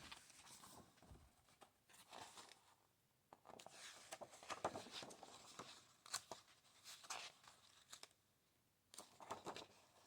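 Faint rustling of paper book pages being handled and turned, in several short bursts with small taps between.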